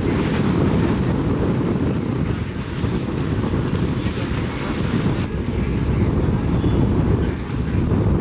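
Wind buffeting the microphone aboard a boat at sea, a steady low rumble with a faint hiss of air and water above it.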